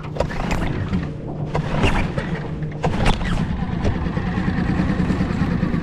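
Small Yamaha 2.5 hp outboard motor running steadily at low speed, with a few sharp knocks and thumps over it in the first three seconds.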